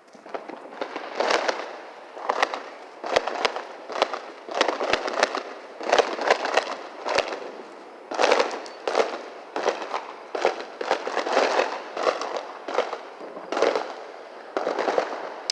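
Fireworks going off in a long, rapid run of loud crackling bangs.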